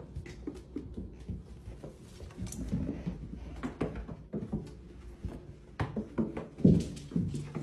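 A series of light knocks and clicks, with louder thumps near the end.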